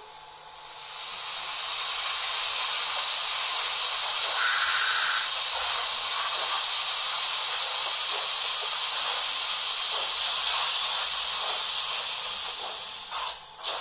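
Long steady steam hiss from the ESU Loksound 5 sound decoder of a Märklin H0 class 45 steam locomotive, played through the model's small loudspeaker; it swells up, holds for about twelve seconds and fades near the end, followed by a few clicks.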